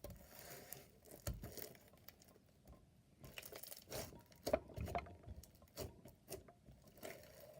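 Faint, irregular soft taps, clicks and crinkles of something being handled close to the microphone.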